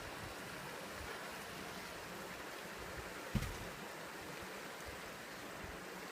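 Steady hiss of falling rain, with one short low thump about three and a half seconds in.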